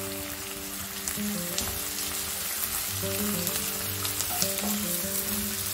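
Sliced onions and garlic sizzling in hot coconut oil in a wok, with a steady crackle of small pops, as a spatula stirs them through the oil.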